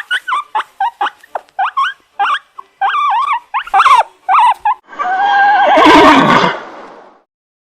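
A dog yelping and whimpering in quick, short, high calls, then a horse neighing once in a long, quavering whinny about five seconds in.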